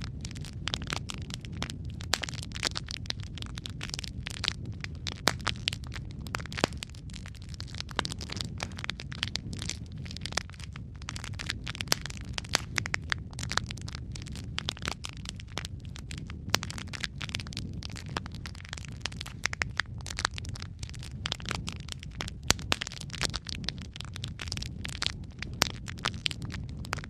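Wood fire in a fireplace burning steadily with a low rumble of flames, dotted with frequent irregular crackles and sharp pops.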